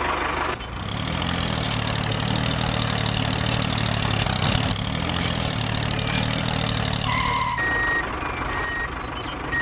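Mini tractor's motor running steadily with a low hum. Short, repeated high beeps come in near the end.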